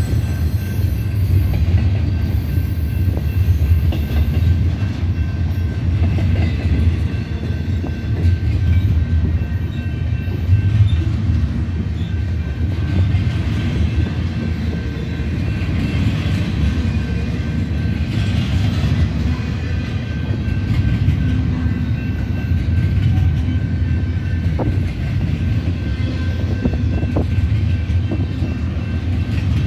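Double-stack intermodal container freight train rolling past: a steady, heavy rumble of wheels on rail, with thin steady high tones above it.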